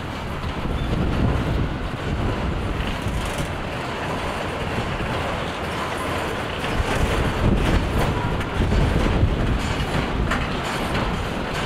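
Freight train of autorack cars rolling past: a steady rumble of steel wheels on the rails, with scattered clicks as the wheels cross rail joints.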